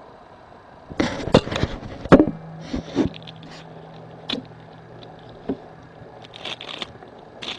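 Small objects being handled on a hard surface: a quick flurry of knocks, taps and rustles between about one and three seconds in, then a few scattered single taps, with a faint low hum under part of it.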